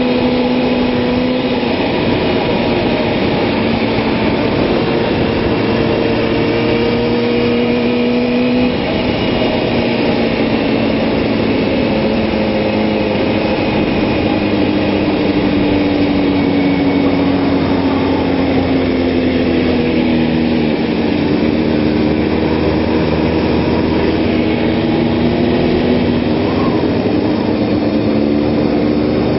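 Kawasaki ZX-6R 600cc inline-four sportbike engine running under steady, part throttle through a turn. The engine note holds nearly level, steps down slightly twice early on and climbs near the end as the throttle is rolled back on.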